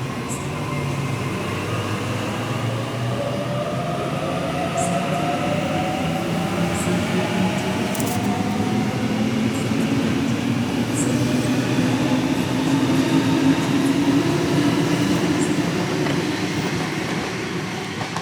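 Electric train running at the station, a steady rumble of wheels on rail with the traction motors' whine slowly rising in pitch as it picks up speed. It grows louder toward about two-thirds of the way through.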